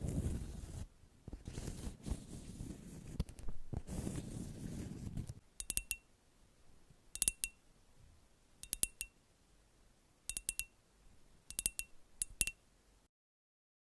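Rustling for about five seconds, then small glass items clinking in six short clusters of a few light taps each, with a bright ring, as cosmetic glass bottles are handled.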